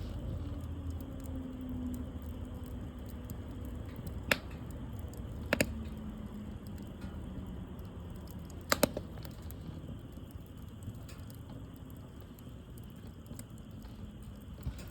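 Wood fire burning with a low steady rumble, broken by a handful of sharp crackling pops, two of them coming as quick doubles.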